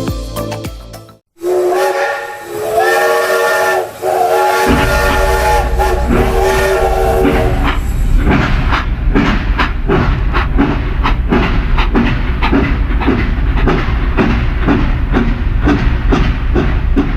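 A train whistle blows a chord of several held notes for about three seconds. Then a low steady rumble with an even rhythmic pulse, like a train under way, runs on.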